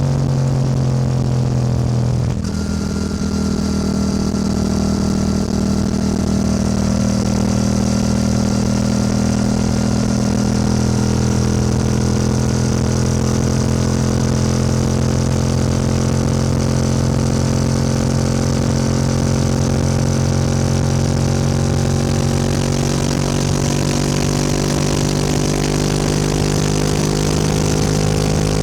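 Yamaha R7 motorcycle engine and exhaust under way, with a sudden change in engine note about two seconds in, then a steady note that slowly drifts lower in pitch, over a constant hiss.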